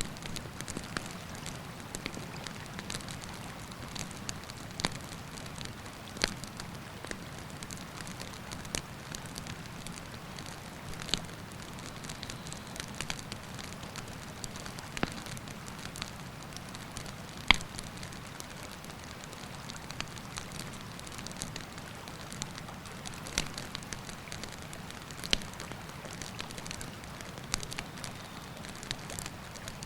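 Wood campfire crackling with scattered sharp pops, the loudest about halfway through. Under it is a steady rushing of river water.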